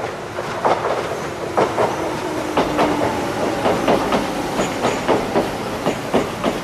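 Electric commuter train rolling slowly through the train wash, its wheels clacking irregularly over rail joints and points, several clacks a second, with a faint squeal near the middle.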